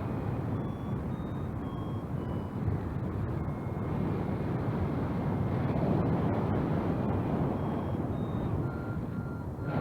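Strong wind buffeting the microphone in a steady, gusting rush, with a paragliding variometer giving short beeps that step up and down in pitch.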